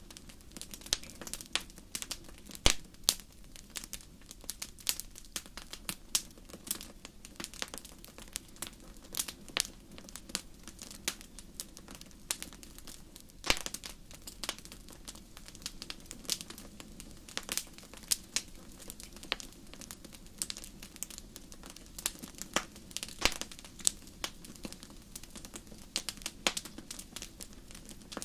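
Wood fire in a fireplace crackling, with irregular sharp pops and snaps over a low steady hiss and a few louder pops.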